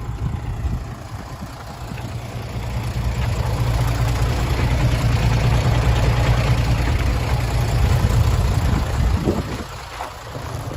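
Mitsubishi Fuso 6D17 straight-six diesel engine in a dump truck, running steadily. It builds up in loudness over a couple of seconds, holds there for about five seconds, then drops back suddenly near the end.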